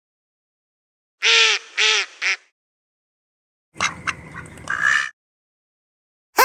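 Duck quacking: three short quacks in quick succession about a second in, then a longer, rougher burst of calls around four seconds in, with silent gaps between.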